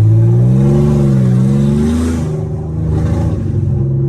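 Nissan VR30DDTT twin-turbo V6 running with no exhaust fitted as the car drives. Its pitch rises gently over the first second or so, drops about two seconds in, then holds steady.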